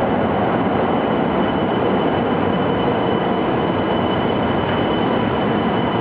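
Steady running noise inside a Shinkansen (Nozomi) car: an even rush with a faint thin high tone above it.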